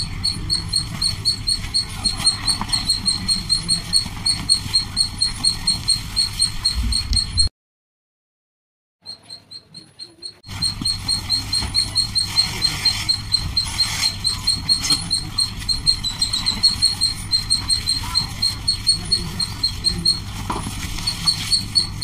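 A bird chirping over and over, about three or four short, high chirps a second. The chirping drops out briefly about seven and a half seconds in, then comes back. Under it is the soft crumbling of dry clay blocks being pressed by hand.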